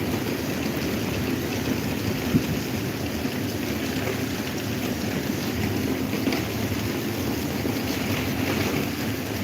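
Electric table fan running steadily: the motor's low hum under the rushing of air off the blades, with a single short knock a little over two seconds in.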